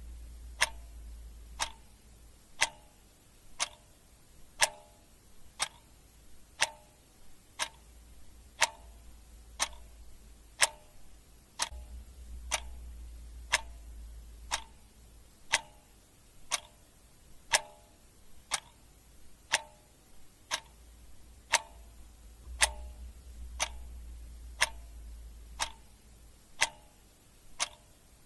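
Clock ticking steadily, about one sharp tick a second, over a low rumble that swells and fades.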